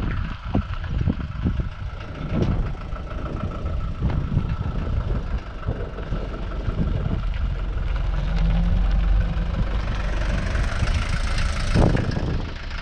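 Mercedes-Benz W123 240D's four-cylinder diesel engine running as the car drives across the lot, growing louder as it comes close by near the end.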